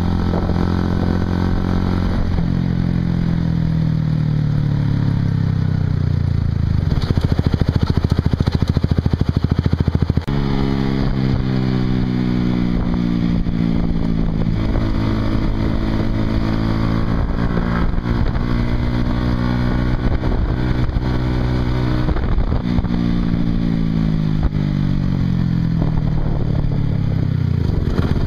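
Honda CBR150R single-cylinder engine through a Yoshimura exhaust while riding, its note rising and falling with throttle and road speed. There is a louder, harder stretch about a third of the way in that ends abruptly with a change of pitch, then a long slow fall in revs.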